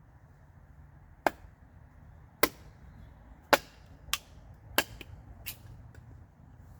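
Six sharp strikes roughly a second apart, the last one weaker.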